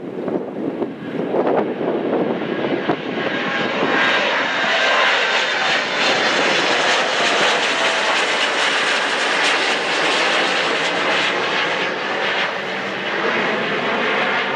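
Jet airliner engines passing close, a broad rushing noise that builds about four seconds in and then holds loud and steady.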